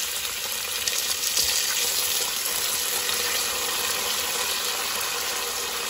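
Raw prawns sizzling in hot oil with cumin seeds in a nonstick pan, a steady hiss, as they are stirred about.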